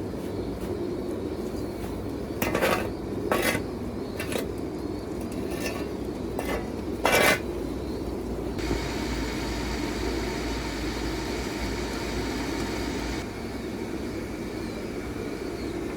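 Several sharp clinks and knocks of hard objects in the first half, over a steady low hum. About halfway, a steady hiss with a faint whine runs for about four seconds and cuts off suddenly.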